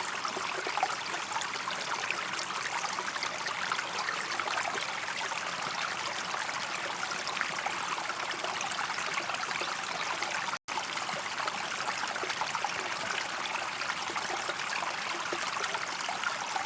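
Steady rush of running water, an even hiss with no lines or rhythm. It is cut by a split-second silence about ten and a half seconds in.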